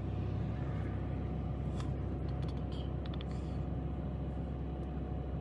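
Steady low idle hum of the 2013 Infiniti G37's 3.7-liter VQ V6, heard inside the cabin with the car stopped, with a few faint clicks about two seconds in.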